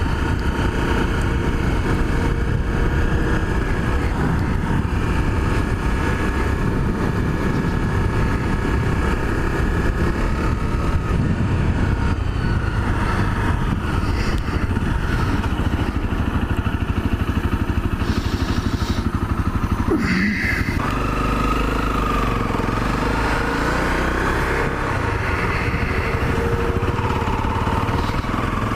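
Honda CRF250L's single-cylinder four-stroke engine running under way. The engine note dips sharply about twenty seconds in, then climbs steadily in pitch as the bike accelerates again.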